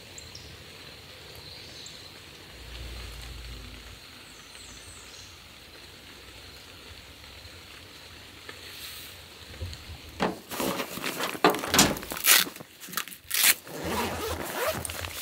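Steady hiss of falling rain, then from about ten seconds in a soft-sided cooler bag being handled and unzipped: a quick run of sharp rustles and zipper pulls.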